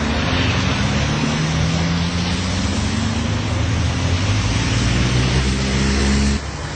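A motor vehicle's engine running with road noise, its pitch slowly rising as it speeds up; the sound cuts off abruptly near the end.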